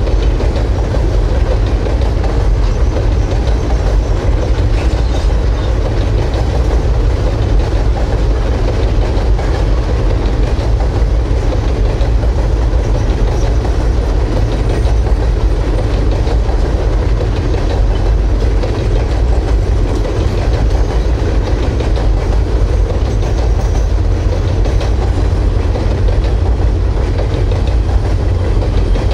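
Freight train rolling past steadily, its cars and wheels making a continuous deep rumble that holds at an even level.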